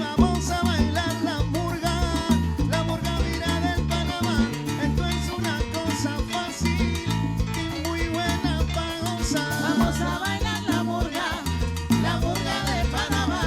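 Live salsa band playing an instrumental passage: a bass line stepping through notes under steady percussion, with brass or keyboard melody lines on top.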